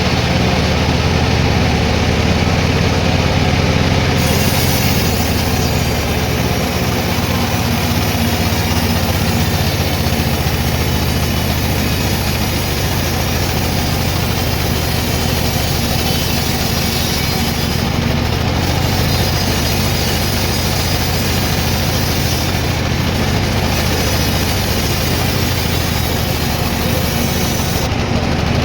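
Sawmill machinery running steadily: a continuous loud mechanical hum with a low engine-like drone.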